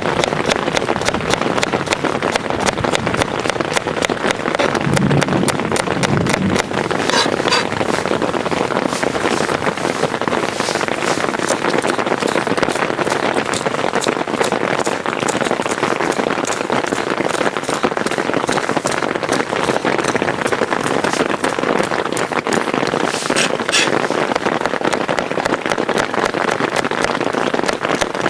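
Heavy rain drumming steadily on a tent, a dense patter of drops. A brief low thud about five seconds in and two short clinks, one near the start and one near the end.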